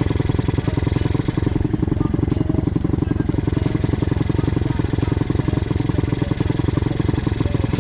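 Pitbike engine running steadily, its single cylinder firing in a rapid, even pulse.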